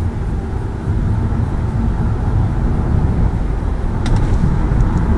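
Steady low road and engine rumble inside a moving Lada Vesta Cross, with a sharp click about four seconds in and a couple of faint ticks after it. The click is the kind being hunted from the rear right of the cabin, not cured by lubricating the door glass seals.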